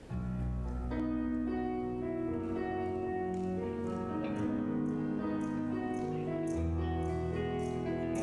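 Church praise band playing an instrumental introduction: sustained keyboard chords over long bass notes, with faint, evenly spaced ticks of light percussion.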